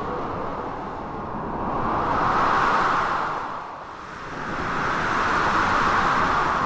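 Storm ambience of blizzard wind and crashing sea waves: a steady rushing noise that swells up twice and eases off between.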